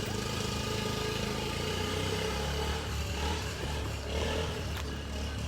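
A motor vehicle's engine running steadily at a low, even pitch.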